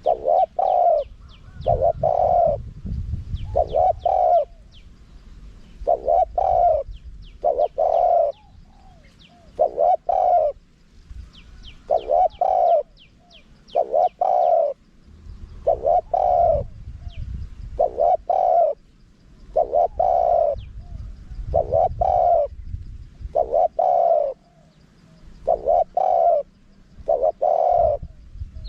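Spotted dove cooing in a high-voiced, wild-bird style. Its phrases of a few short coo notes repeat about every two seconds, with thin high chirps of small birds in the background.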